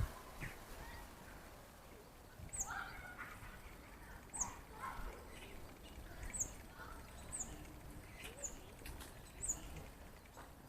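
Common starlings calling faintly: about six short, sharp high chirps that slide downward, spaced a second or two apart, with softer lower chattering calls and a few clicks between them.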